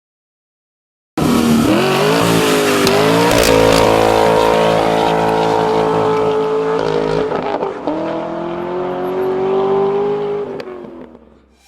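An engine at high revs, its pitch climbing, holding high and steady for several seconds, dipping and climbing again, then fading out near the end.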